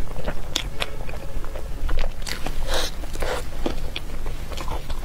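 A person biting and chewing food close to the microphone: irregular sharp mouth clicks and crackles, busiest in the middle, over a steady low hum.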